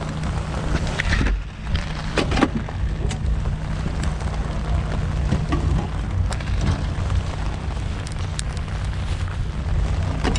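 Rain falling, with many scattered sharp drop taps over a steady low rumble.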